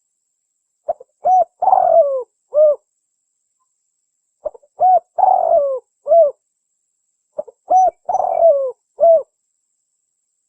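Spotted dove cooing its call three times, about three and a half seconds apart, in a recorded lure call. Each phrase is a faint short note, a clear coo, a longer falling coo and a closing coo.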